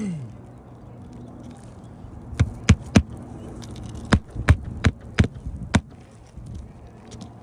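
Hammer blows during shingle roof nail work: about eight sharp strikes in two runs, three close together about two seconds in, then five more a second later.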